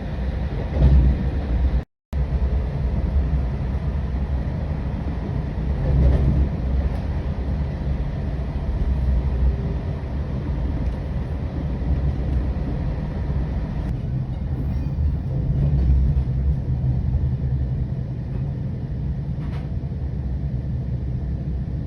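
Passenger train running along the track: a steady, low rumble of wheels on rails with a few swells, cut by a brief dropout about two seconds in.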